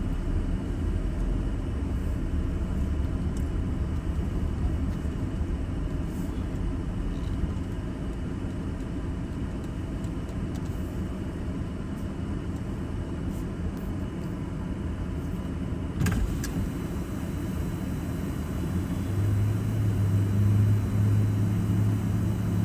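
A car running, heard from inside: a steady low rumble of engine and road noise, with a single sharp click about 16 seconds in and a steady low hum coming in near the end.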